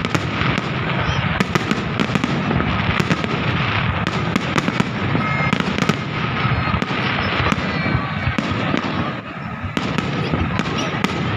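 Fireworks display in a dense barrage: a constant rumble of bursts with many sharp bangs and crackling, continuing without a break.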